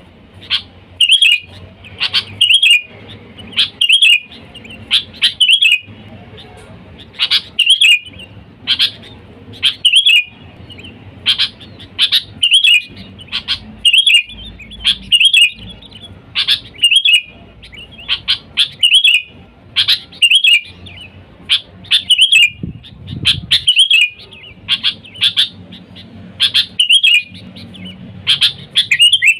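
Sooty-headed bulbul (kutilang) calling over and over: its basic call, short bright chirping phrases about once or twice a second with brief gaps between them.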